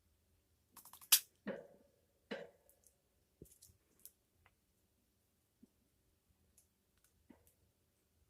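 African grey parrot making clicking sounds: one sharp loud click about a second in, two short rasping noises soon after, then a scatter of faint clicks.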